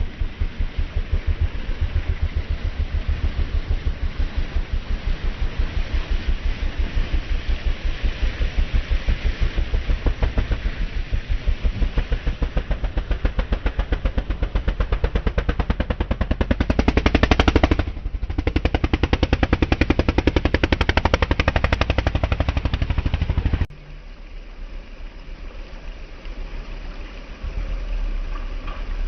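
A racing vehicle's engine running with a rapid, hard exhaust beat. It rises to its loudest about 17 seconds in, then drops off suddenly a few seconds later to a quieter running sound.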